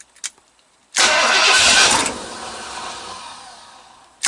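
Engine cranked by its electric starter on a freshly revived Optima battery: it turns over loudly for about a second after a click from the key, then fades out over the next two seconds without staying running. A second start attempt begins right at the end.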